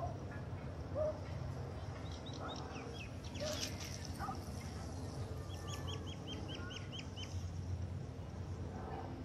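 Birds calling outdoors: a few short high chirps, then about a second of eight quick descending chirps in a row past the middle, with some short lower calls scattered through, over a steady low rumble.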